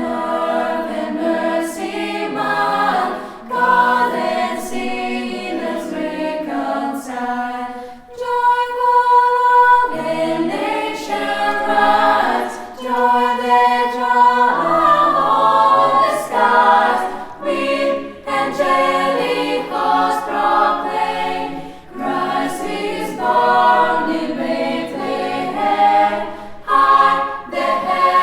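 A choir singing, several voices in harmony without instrumental backing.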